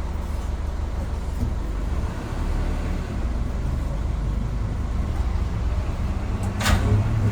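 Steady low drone of an airliner's engines and airflow as heard inside the passenger cabin in flight, with one brief sharp noise near the end.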